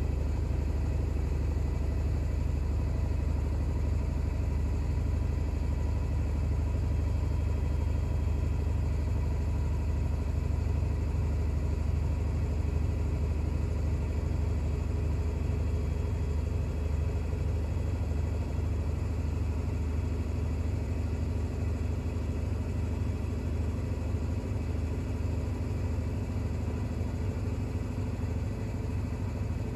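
Bosch WAX32GH1 washing machine drum spinning with a steady low hum during an intermediate spin of an unbalanced towel load.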